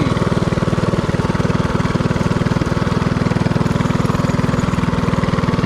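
Predator 224cc single-cylinder four-stroke engine on a mini-bike running steadily at an even speed while riding, its firing pulses coming in a fast, regular beat.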